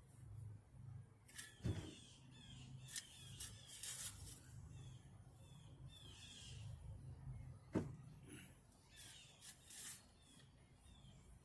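Two sharp knocks about six seconds apart, with light scraping between them and faint, short birdsong chirps.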